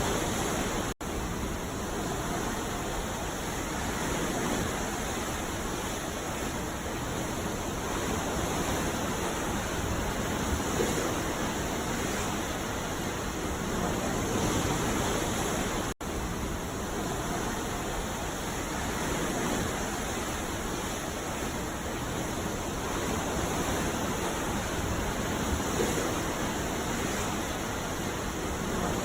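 Ocean surf: a steady wash of breaking waves, swelling and easing every few seconds, with two brief drop-outs, one about a second in and one about halfway through.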